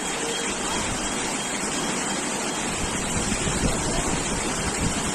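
Steady rush of floodwater, with wind buffeting the microphone in low gusts from about halfway through.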